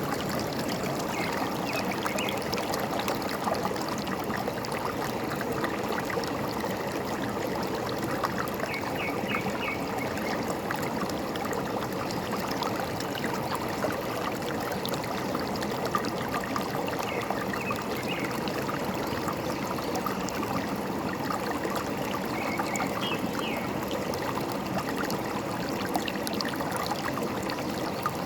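Forest stream running and trickling steadily, with a few faint short bird chirps now and then.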